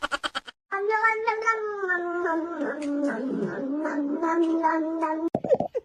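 A cat giving one long, drawn-out yowl of about four and a half seconds that wavers in pitch, after a quick rattle of clicks dies away at the start.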